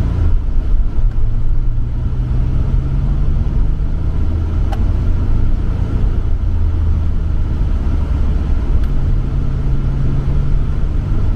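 Nissan Skyline R34 GT-R's twin-turbo RB26 straight-six running through a MINES aftermarket exhaust while driving at fairly steady revs, with road noise underneath. Two faint ticks are heard, about halfway through and near the end.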